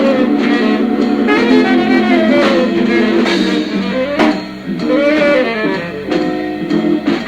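Jazz quartet of organ, guitar, saxophone and drums playing, with the saxophone leading a gliding melody over sustained organ chords. There is a sharp drum hit about four seconds in.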